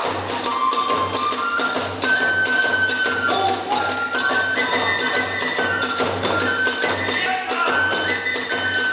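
Kagura hayashi ensemble: a bamboo flute playing a stepping melody of long held notes, over regular beats of the large drum about twice a second and the clashing of hand cymbals.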